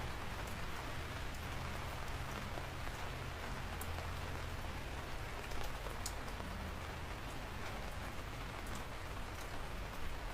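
Steady rain falling on a surface, an even hiss with scattered sharp drip ticks and a low rumble underneath.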